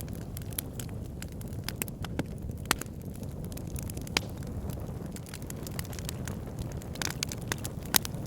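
Campfire burning: a steady low rumble of the flames with scattered sharp crackles and pops, a few of them louder snaps.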